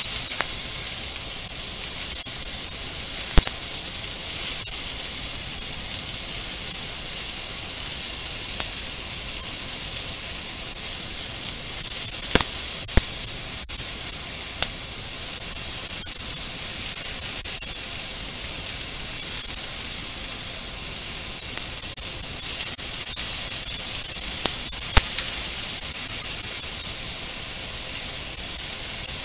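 Pork and long green onion sizzling steadily as they stir-fry in a non-stick frying pan. Wooden chopsticks click against the pan a few times.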